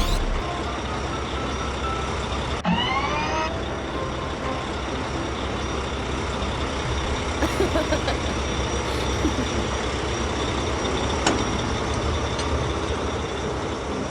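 Heavy truck engine sound effect running steadily, with a short rising tone about three seconds in.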